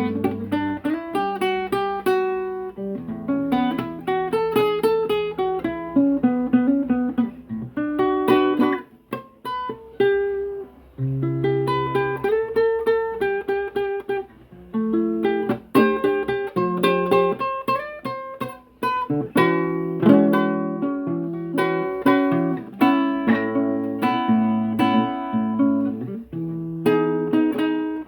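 Acoustic guitar played solo in an improvised run of picked notes, with a melody over held bass notes and the odd strum.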